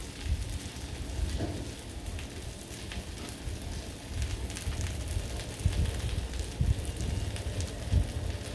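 Chopped vegetables sizzling and crackling in a hot frying pan, with a few soft low knocks near the end.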